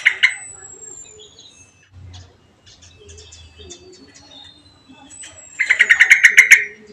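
Small caged songbirds calling: thin, high whistles that slide slowly down in pitch, with a loud burst of calls at the start and a rapid chattering run of about ten notes near the end.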